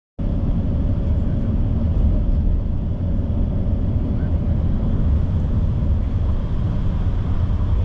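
Steady low drone of a bus engine and its running noise, with a faint steady hum above it. It starts abruptly just after the beginning.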